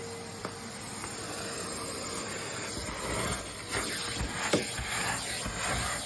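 Vacuum cleaner's motor hum fading out, leaving a steady hiss with a few light clicks and a sharper knock about four and a half seconds in.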